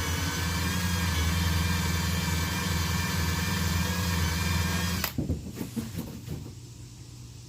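Power tool running steadily at low speed with a high whine, stripping old double-sided molding tape off a truck door; it cuts off suddenly about five seconds in, followed by a few light knocks.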